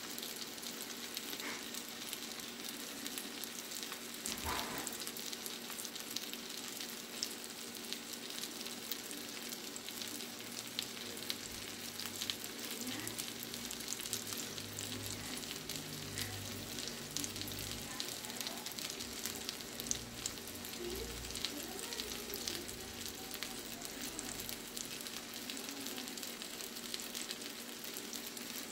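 Halibut steaks and cherry tomatoes frying in garlic butter in a frying pan: a steady sizzle full of small crackling pops.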